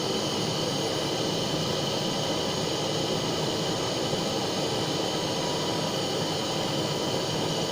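Butane blowtorch flame running with a steady hiss, heating a crucible of molten silver solder alloy.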